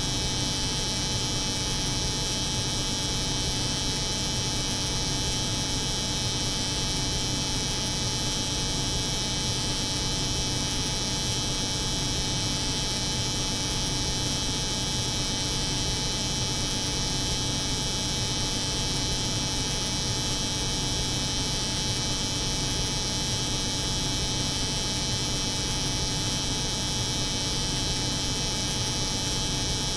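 Steady, unchanging layered drone: the hum of a cold room's refrigeration mixed with the buzz of an electric hair clipper running continuously.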